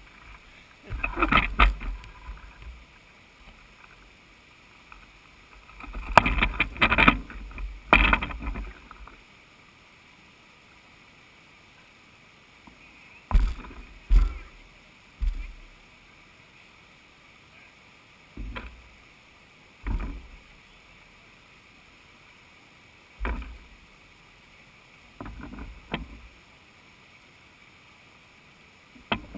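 Water splashing and sloshing close to the camera in irregular bursts, with quiet stretches of faint hiss between them.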